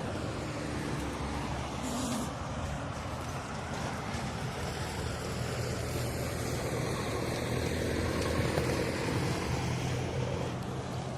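A vehicle passing by, a steady rush of noise that swells to its loudest about eight seconds in and then eases off.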